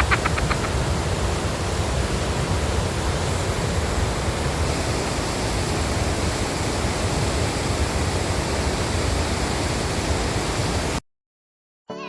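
Tännforsen waterfall rushing: a steady, even noise of falling water that cuts off suddenly about eleven seconds in.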